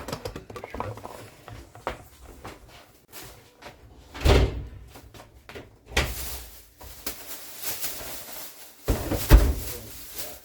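Groceries being unpacked and put away: a run of separate thuds and knocks as items are set down and cupboard or fridge doors are handled, the loudest about four, six and nine seconds in.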